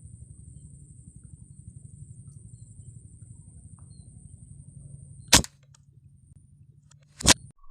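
Two sharp shots about two seconds apart, the gunfire of a bird hunter shooting from a blind. Before them there is a steady low hum and a thin high whine; the whine stops at the first shot.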